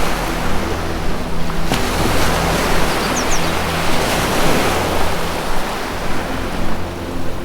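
Ocean surf washing in and ebbing in slow swells, over low sustained music tones. There is a brief high bird chirp, two quick notes, a little over three seconds in.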